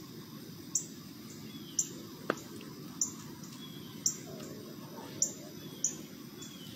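A bird chirping, short high chirps repeating about once a second, over a faint low rumble of background noise, with one sharp click a little over two seconds in.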